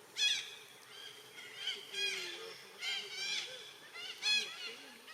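A young monkey giving about half a dozen short, high-pitched cries in a row, each one arching up and falling away, with a second or less between them.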